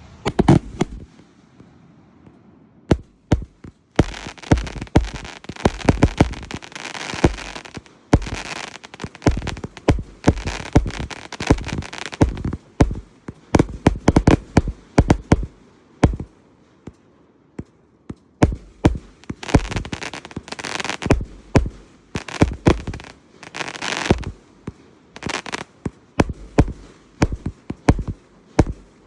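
A 293-shot consumer firework cake firing rapid volleys of shots and bursts, in waves with short lulls between them. A few scattered shots come first, then dense strings of reports start about four seconds in.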